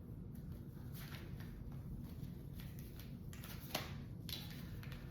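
Quiet room tone with a steady low hum, broken by two faint short clicks near the end.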